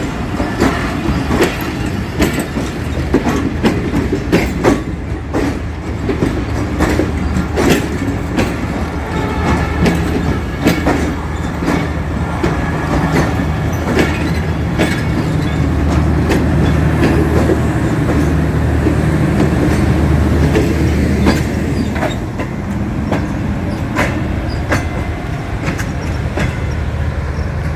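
Passenger train rolling into a station: steel wheels clicking over rail joints and points in irregular runs, over a steady low hum that grows a little louder past the middle.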